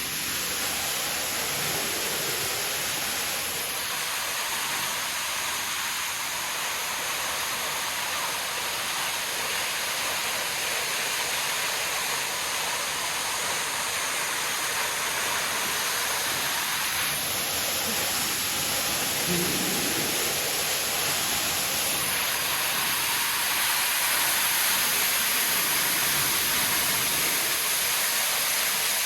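Waterfall rushing: a steady hiss of falling water, swelling slightly louder toward the end.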